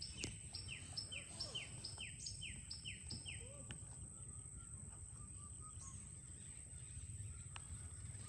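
Forest birdsong: one bird repeats a short, falling note about two to three times a second, stopping about three and a half seconds in, then fainter, lower chirps follow. A steady high-pitched whine and a low rumble run underneath.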